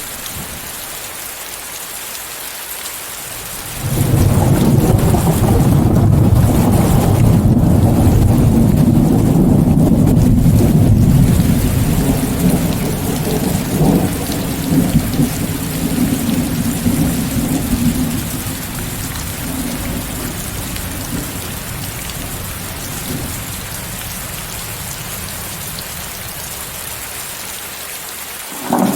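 Steady hiss of heavy rain mixed with white noise. About four seconds in, a roll of thunder starts suddenly, rumbles loudly for several seconds, then slowly dies away; another thunderclap begins at the very end.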